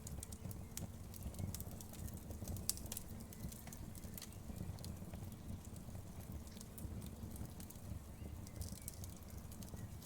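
Wood fire crackling: irregular sharp pops and snaps over a steady low rumble of burning, with one louder pop a little under three seconds in.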